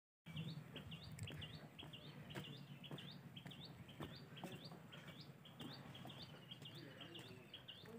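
Faint bird chirping: a short, upward-hooked chirp repeated about twice a second, with a few faint ticks among them.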